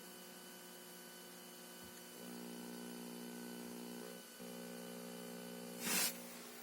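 Aftermarket Junsun Android head unit putting digital noise through the car speakers: a steady buzzing hum made of several pitches that steps louder about two seconds in, drops out for a moment, then a short loud burst of static crackle near the end. It is a fault in the unit's audio output.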